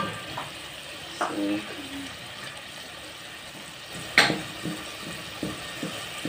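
Spiced tomato-and-onion base with freshly added garlic frying gently in a pot, a steady sizzle as it is stirred, with a sharp knock about four seconds in.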